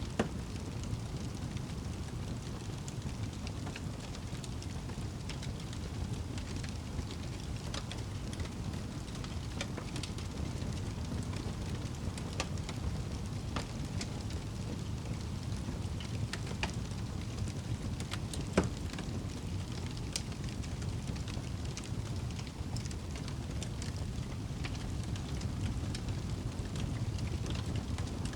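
Wood fire burning in a fireplace: a steady low rumble with scattered crackles and an occasional sharper pop, the loudest about two-thirds of the way through.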